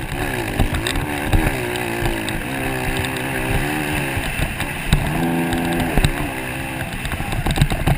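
Motocross motorcycle engine revving up and down repeatedly as the throttle is worked, held at a steady high pitch for about a second around five seconds in, with scattered knocks.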